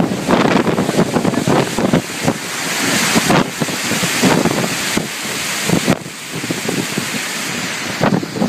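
Strong gusting wind buffeting a phone's microphone: a loud rush of noise, broken by rapid thumping gusts that rise and fall.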